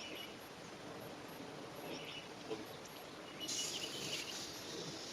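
Outdoor background with a few short, high bird chirps, then, about three and a half seconds in, a louder steady hiss comes in and holds.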